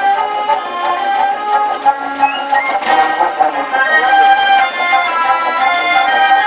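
Band music with brass instruments playing a melody in held notes.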